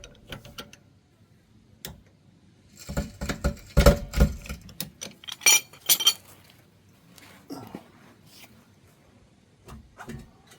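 Metal-on-metal clanks and clinks from tools and suspension parts being worked while lining up a car's strut: a single knock, then a burst of clanks, then more clinks and a few fainter taps.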